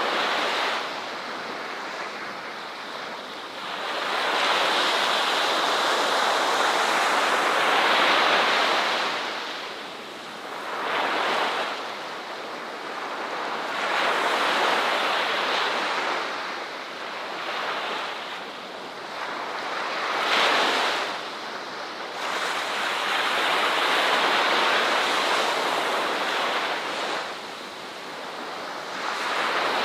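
Ocean waves breaking and washing on a shore, a rushing hiss that swells and ebbs every few seconds.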